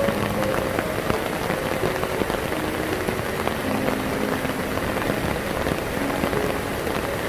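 Heavy rain pouring down: a steady, dense patter of drops hitting the ground.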